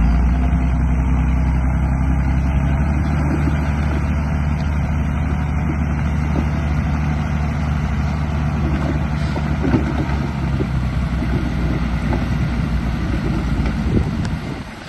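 An engine-like drone at a steady low pitch for about eleven seconds, then rougher and less even, cutting off sharply near the end.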